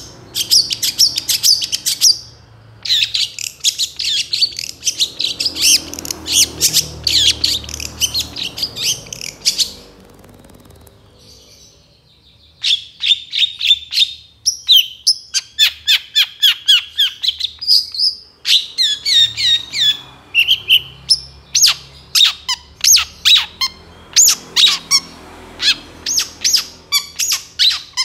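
Long-tailed shrike singing a fast, varied song of high chattering notes, stopping for about two seconds near the middle and then going on with a run of sharp, quickly repeated notes.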